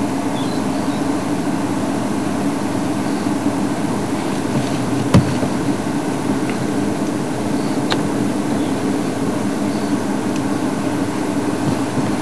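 Game-drive vehicle's engine running steadily, with a single sharp knock about five seconds in.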